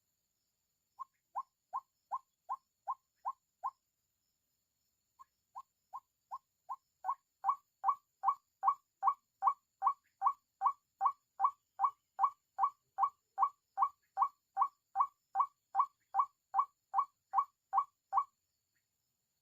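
White-breasted waterhen (ruak-ruak) call: a fast, even series of short notes, about two and a half a second. It breaks off briefly near the start and again about four seconds in, swells louder, then stops suddenly near the end.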